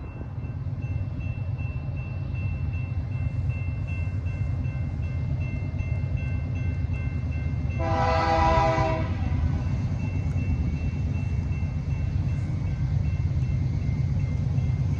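Diesel locomotive train rumbling and growing louder as it approaches, with a single short horn blast about halfway through.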